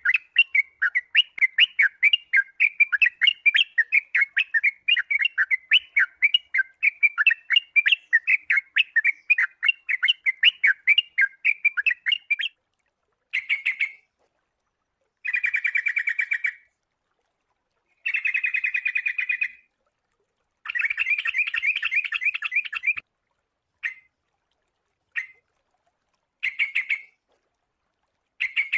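Sooty-headed bulbul (kutilang) calling: a fast, unbroken run of chirps for about twelve seconds, then short bursts of rapid chattering with silent gaps between them.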